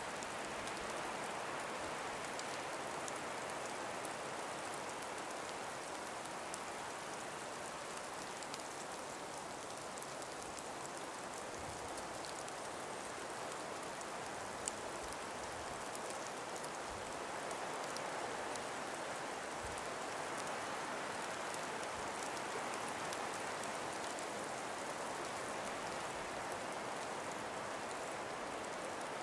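Calm breeze moving through an ice- and snow-laden forest: a steady, soft hiss that swells gently now and then, with a few faint ticks scattered through it.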